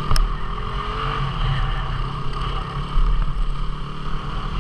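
Single-cylinder 250 cc dual-sport motorcycle engine running on the move, its pitch rising in the first second and then holding. A sharp knock comes just after the start.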